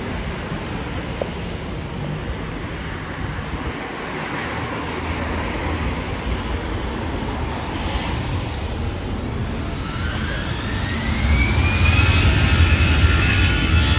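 Airbus A319's CFM56 turbofan engines running with a steady jet rush. About ten seconds in, a fan whine rises in pitch and then holds high as the engines get louder.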